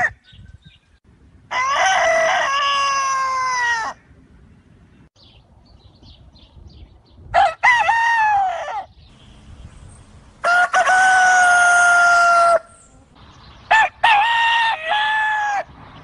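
Roosters crowing: four separate crows, each one and a half to two and a half seconds long, with quiet pauses between them.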